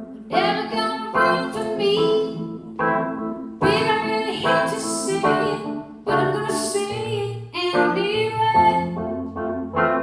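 Piano playing a slow run of sustained chords, a new chord struck about every second, as the song's introduction.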